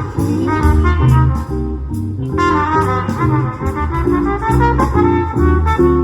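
Swing-style jazz instrumental: a trumpet plays the melody over a band backing with a walking bass line.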